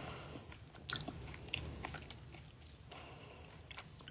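A person biting and chewing food close to the microphone, a few faint clicks and crunches, the loudest about a second in.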